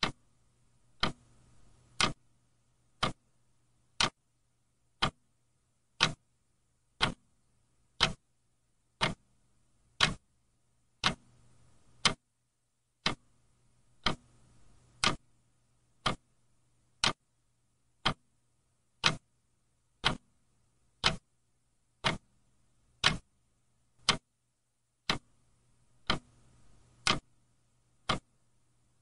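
Clock ticking steadily: sharp, even ticks about once a second.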